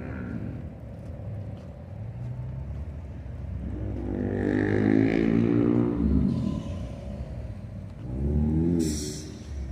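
A car's engine rising in pitch and level as it drives past, loudest about four to six seconds in, then fading. A second, shorter engine swell follows about eight seconds in.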